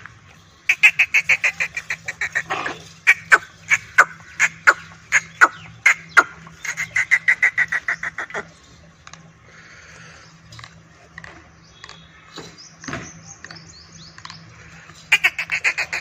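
A bird calling in rapid runs of loud, repeated notes, several a second: one long bout over the first half and a shorter one near the end.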